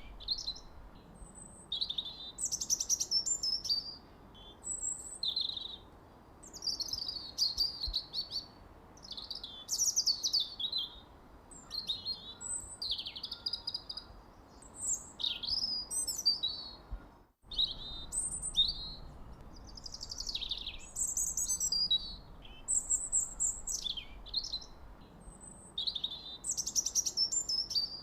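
Songbird chirping and singing in a continuous run of varied high-pitched phrases: quick chirps, trills and falling whistles, one after another with short gaps. The sound cuts out for a moment about 17 seconds in, then resumes.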